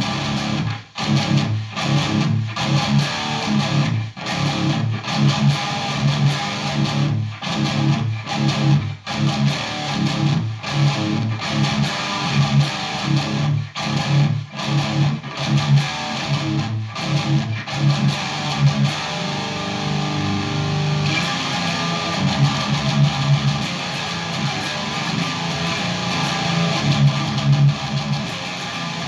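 Electric guitar, a Paul Reed Smith Custom 22, played through a Randall Satan 120 high-gain amp head: distorted rhythm riffing. For the first two-thirds the riff is chopped by many short, abrupt stops; after that it rings on more continuously.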